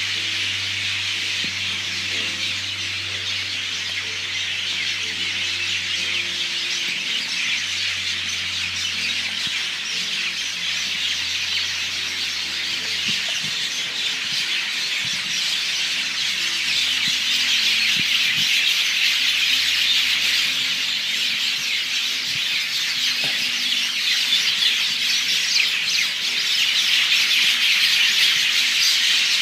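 A flock of birds hidden in trees, calling all at once: a dense, unbroken chatter of squawks and chirps, growing a little louder in the second half.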